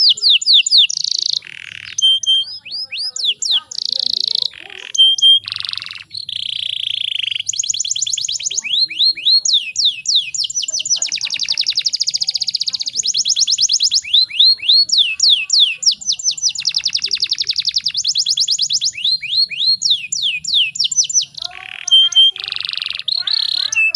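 Domestic canary singing continuously: fast trills of repeated falling notes, switching every second or two to a new trill or a short buzzy phrase.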